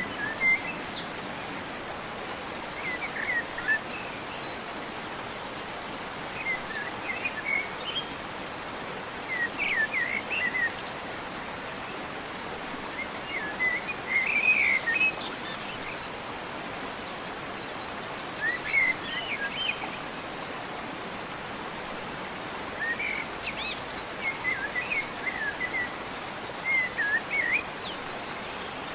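Birds chirping in short runs of quick notes every few seconds over a steady, even hiss.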